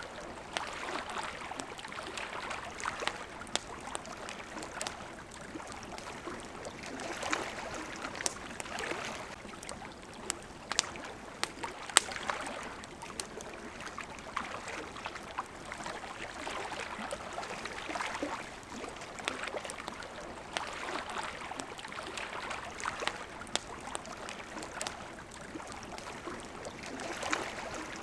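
Water lapping and splashing against a shore in gentle swells every couple of seconds, with a campfire crackling and popping throughout in sharp, irregular snaps.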